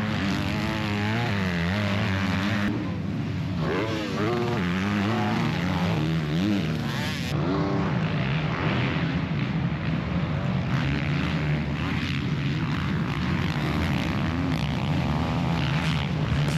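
Motocross dirt bikes racing: several bike engines revving hard, their pitch rising and falling as the riders work the throttle and shift.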